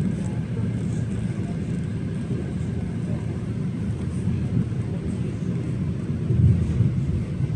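Steady low rumble of a moving passenger train heard from inside the carriage, with a louder bump near the end.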